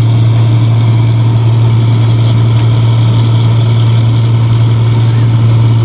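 Engine of a 1545 rice combine harvester with a power exhaust running steadily under load, a loud, even low drone that does not change in pitch.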